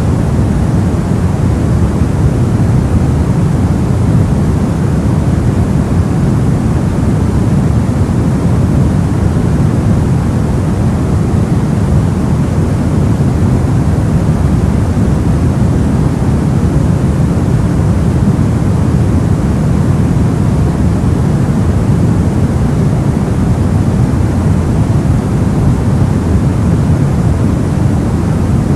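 Soft, steady white noise, filtered so that most of it sits low as a deep, even hiss and rumble. It does not change.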